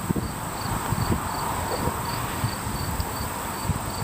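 Insects chirping in an even pulse, about three chirps a second, over low, irregular rumbling noise.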